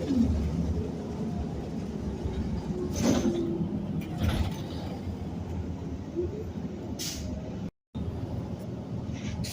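City transit bus in motion, heard from inside: a steady low engine and road rumble with a few brief rattles and knocks. The sound cuts out for a split second near the end.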